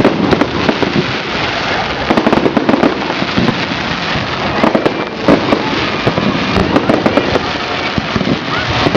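Fireworks display: many shells bursting in quick succession, a dense, continuous crackle of bangs.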